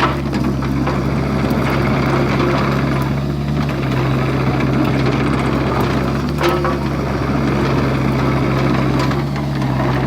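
Excavator's diesel engine running steadily while digging, with a short knock about six and a half seconds in.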